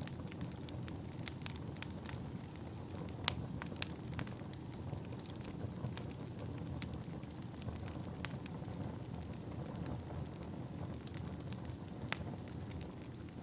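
Wood fire burning in a fireplace: a steady low rumble and hiss of the flames with scattered sharp crackles and pops, the loudest about three seconds in and near the end.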